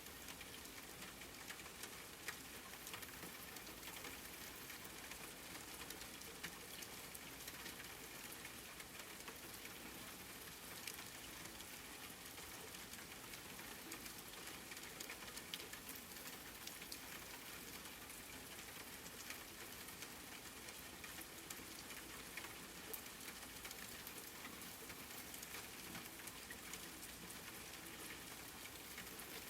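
Steady rain falling, an even hiss with many fine drop patters and ticks throughout.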